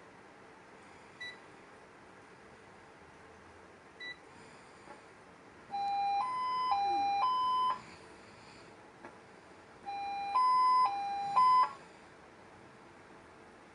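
Electronic alert tones from a lightning warning system on test: two short high beeps a few seconds apart, then two runs of a two-tone chime stepping back and forth between a lower and a higher note, each run about two seconds long.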